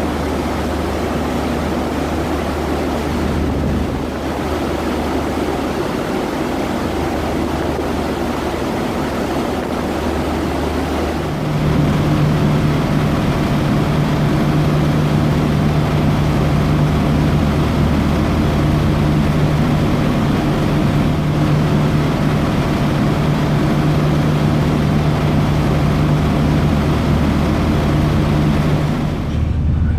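Passenger ferry's engines running steadily under a hiss of water and wind. About eleven seconds in, the engine note steps up to a higher steady hum and grows louder, then holds.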